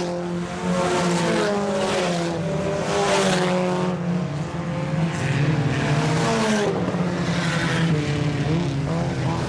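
A pack of four-cylinder IMCA Sport Compact race cars running hard together, several engines droning at once with their pitches shifting as the cars go through the turns and pass by.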